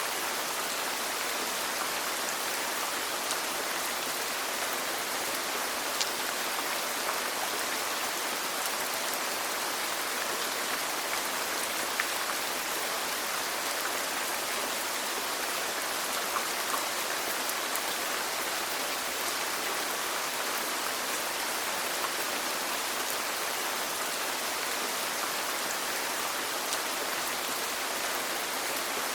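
Steady rain: an even hiss of falling rain, with occasional single drops landing as sharper ticks.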